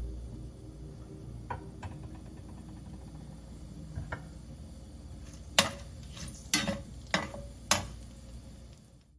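Kitchen utensils knocking and clinking against cookware a few times, over a low steady hum, with a quick run of clinks in the second half.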